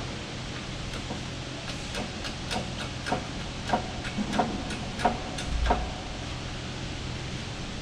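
Irregular series of about a dozen sharp clicks over roughly four seconds, from tie straps being fastened on a helicopter tail rotor hub bushing fitting, over a steady low hum.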